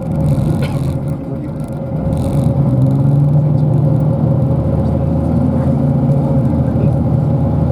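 Bus engine running, heard from inside the passenger cabin: a steady low drone with a thin steady whine above it, growing louder about two and a half seconds in and then holding level.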